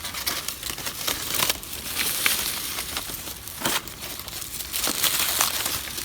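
Newspaper being crumpled and torn, crinkling irregularly with many small crackles.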